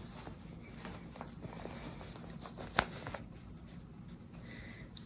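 Muslin fabric rustling faintly as it is handled and turned over, with one sharp click a little past the middle.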